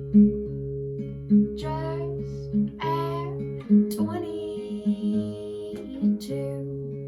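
Slow song intro on acoustic guitar: a plucked note about every second over steady held low notes, with a few brief higher sliding sounds.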